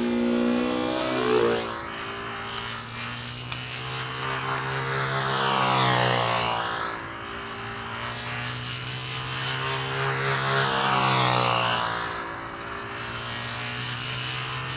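Small model-aircraft engine on a control-line model plane running steadily while the plane circles. The sound swells and fades about every five seconds as the plane passes on each lap.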